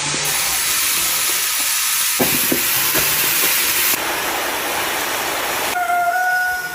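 A loud, steady hiss that changes abruptly a few times, as at cuts between clips. In the last second or so a steady whistle-like tone sounds over it.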